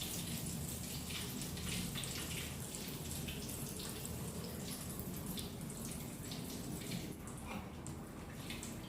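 Breaded chicken pieces deep-frying in hot oil: a steady sizzle with many small crackling pops.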